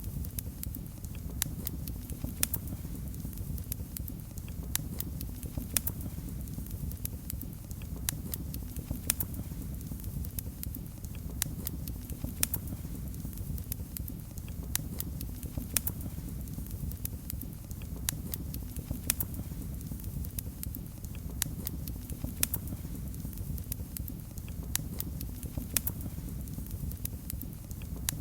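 Wood fire in a fireplace burning with a steady low rumble, with sharp crackles and pops at irregular moments throughout.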